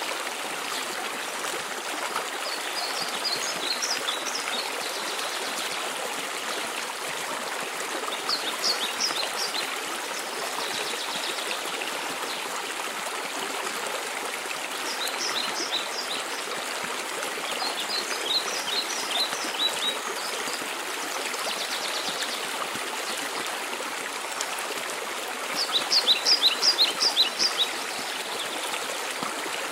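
Steady rushing of a mountain waterfall, with a songbird singing short phrases of quick high notes every few seconds over it. The loudest phrase comes near the end.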